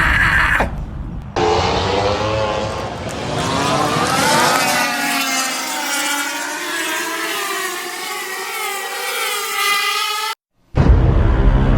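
MotoGP race motorcycles' 1000 cc four-cylinder engines at full song going past the track, several bikes at once. Their engine notes climb for a few seconds, then fall steadily away. The sound cuts off abruptly near the end.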